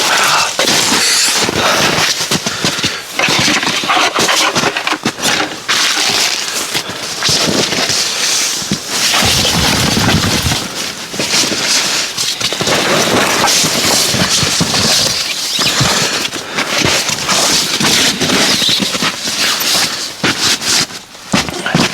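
Close rustling and crinkling of tent fabric and camping gear being handled, an irregular run of crackles and small clicks.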